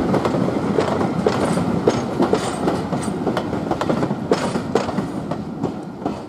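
Passenger coaches rolling by, their wheels clicking rapidly over the rail joints; the clatter fades as the last coach passes and the train draws away.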